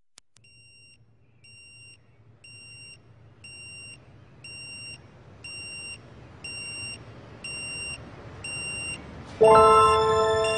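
High electronic beeping, one short beep about every second, each beep louder than the last. About nine seconds in, music starts with bright mallet-like tones.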